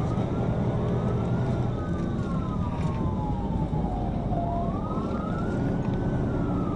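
Police car siren in a slow wail, rising and falling about every three seconds, over the steady engine and road noise of a car driving at speed.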